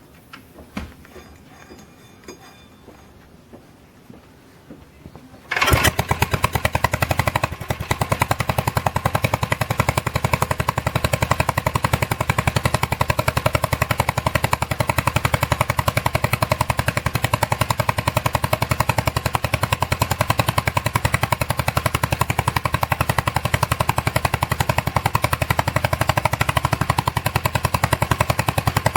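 Gravely LS walk-behind tractor's single-cylinder engine catching abruptly about five and a half seconds in, then running steadily with fast, sharp exhaust pops, on its first start after a carburetor cleaning. Before it catches there are only a few faint clicks.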